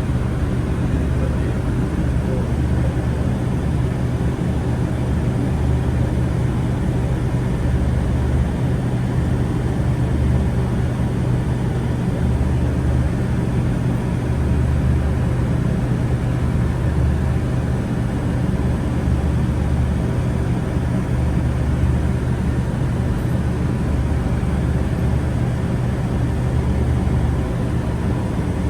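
Steady running noise of a public-transport vehicle heard from inside while it moves: a constant low hum with a deeper rumble that swells and fades every second or two.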